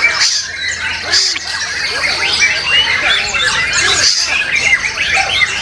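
Many caged white-rumped shamas singing at once, a dense unbroken mass of overlapping whistles and chatter.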